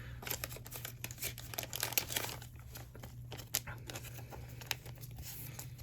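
Trading cards and their packaging being handled: light, irregular rustling and crinkling with small clicks.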